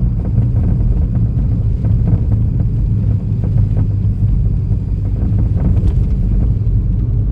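SEAT Leon FR driving over a rough country lane: a steady low road and engine rumble with a few sharp banging knocks from the front suspension, which wants doing.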